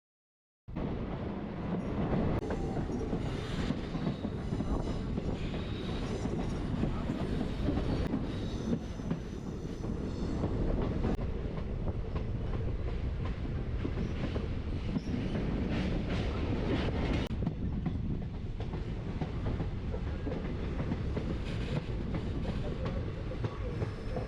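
Passenger train running along the track: a steady rumble of wheels on rail with rattling and clatter, cutting in suddenly under a second in.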